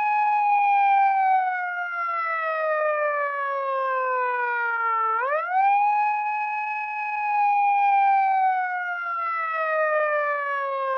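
Retro-style police car siren wailing: its pitch climbs quickly, holds briefly, then sinks slowly over about five seconds, and the cycle starts again about halfway through.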